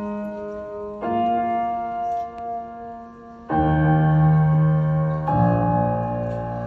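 Slow piano chords, each struck and left to ring. A new chord comes about a second in, fades, then deeper, louder chords come in past the halfway point and again near the end.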